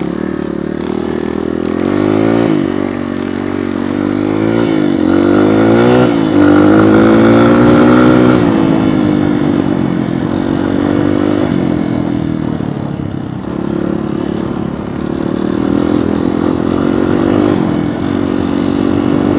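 Dirt bike engine running under load, its pitch climbing several times as the rider revs through the gears. It is highest and loudest about six to eight seconds in, then drops back and holds steadier.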